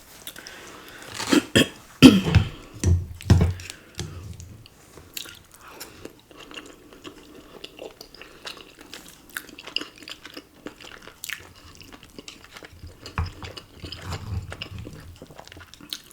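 Close-up chewing and biting on cheesy ramen noodles and chewy Korean rice cakes (tteokbokki). A few louder, sharper eating sounds come about one to four seconds in, then quieter, irregular chewing.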